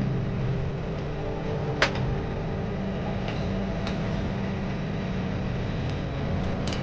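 Steady drone of an airliner cabin, engines and air conditioning humming together. There is one sharp click about two seconds in and a few faint ticks near the end.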